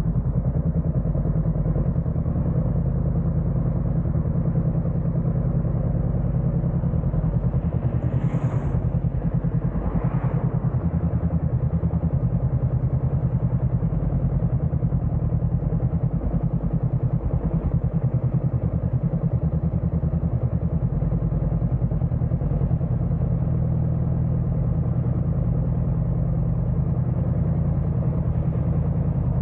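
Honda CBR500R's parallel-twin engine idling steadily, with two brief louder swells about eight and ten seconds in.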